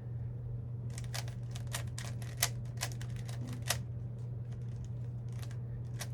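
Plastic puzzle cube being turned fast by hand: rapid runs of clicking and clacking as its layers snap round, busiest from about a second in and again near the end. A steady low hum runs underneath.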